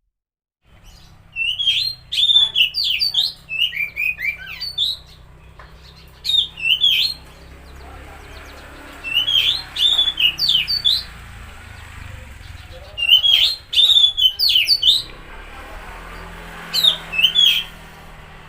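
Oriental magpie-robin (kacer) singing in about five bursts of quick, sliding whistled notes with pauses between them, over a steady low hum.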